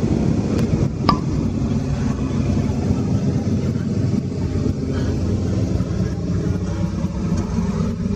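Steady low drone of motor vehicle engines running while riding along in a group motorcycle ride, with a short sharp click about a second in.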